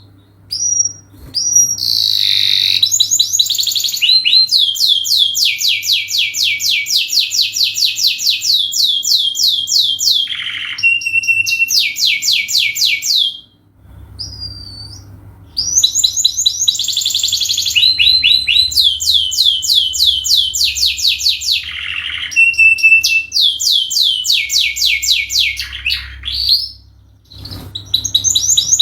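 Domestic canary singing a long song of rapid repeated notes and trills, high-pitched, breaking off briefly about halfway through and again near the end before resuming.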